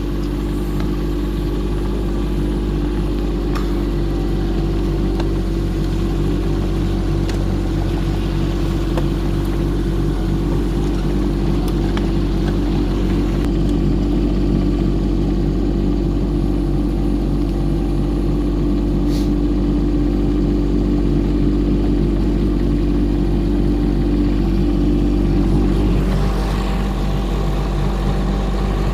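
Excavator's diesel engine running steadily under load as it tows a sledge loaded with a cable spool, holding an even pitch throughout with a slight change in tone near the end.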